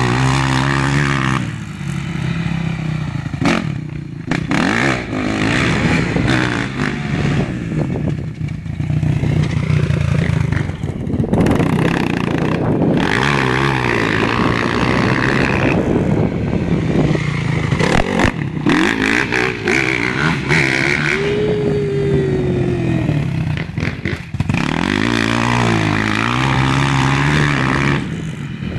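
Motocross bike engine revving up and dropping back again and again as the rider accelerates out of corners and slows into the next.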